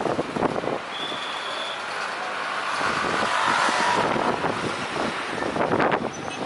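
Jet airliner's engines whining on landing approach, swelling to a peak in the middle. Gusts of strong wind buffet the microphone.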